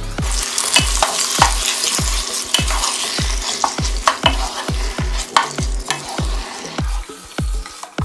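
Raw boneless chicken pieces sizzling in hot oil and butter with browned onions and whole spices, stirred and scraped with a wooden spatula; the sizzling dies down about seven seconds in. A steady thudding beat of background music runs underneath.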